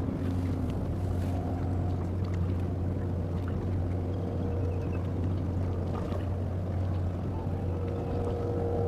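Boat engines running steadily in the harbour, a constant low drone with faint steady tones above it.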